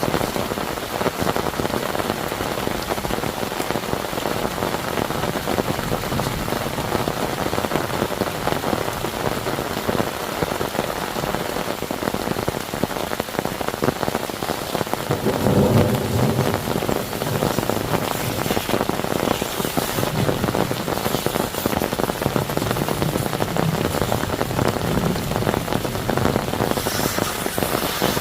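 Heavy rain falling steadily, a dense hiss of drops hitting surfaces, with a louder, deeper swell about halfway through.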